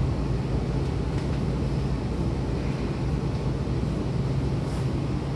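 A Keihan Main Line electric train heard from inside the car by the doors: a steady low hum over a rumbling noise.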